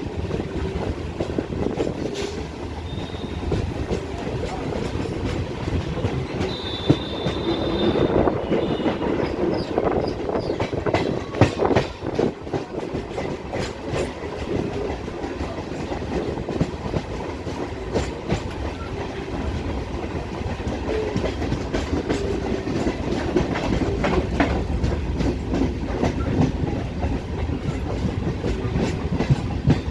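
Old electric multiple unit (EMU) local train running, heard from inside the coach: a steady rumble with the clickety-clack of wheels over rail joints, and a few brief high squeals in the first ten seconds or so.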